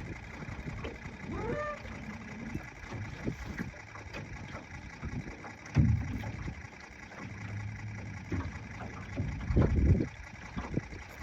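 Wind buffeting the microphone in irregular low gusts on a windy lake, with two louder low thumps, about six seconds in and near the end.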